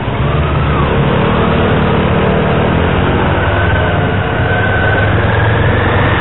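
Motorbike engine running as the bike pulls away through traffic, under steady wind rush on the microphone. A faint whine rises in pitch in the second half.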